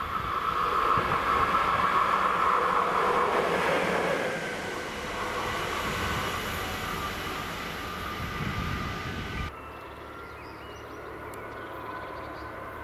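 A train passing by on the rails: loudest in the first four seconds, with a high tone that drops in pitch as it goes past. The rail noise cuts off abruptly about nine and a half seconds in, leaving quiet outdoor ambience.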